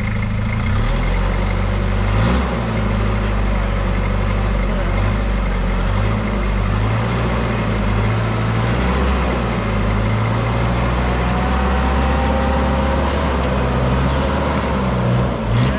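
Toyota Hilux turbo diesel engine running at low revs, its pitch stepping up and down slightly, with a brief knock about two seconds in.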